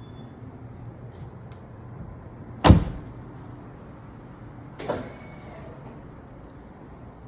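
Jeep Wrangler door shut with a loud clunk about two and a half seconds in, followed by a second, lighter clunk about two seconds later.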